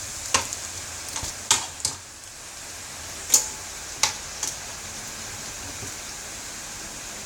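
Beef balls frying in hot oil in a pan: a steady sizzle with about half a dozen short, sharp crackles as the oil spits. The balls are nearly done, already turning slightly golden.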